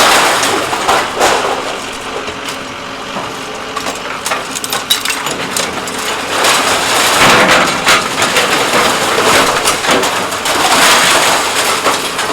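Scrap-metal crusher's blade coming down on scrap, metal crunching with many sharp cracks and snaps, swelling louder twice in the second half.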